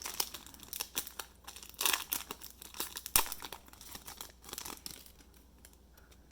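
Wrapper of a Panini Prestige basketball trading card pack torn open and crinkled by hand: a run of sharp crackles that dies down about five seconds in.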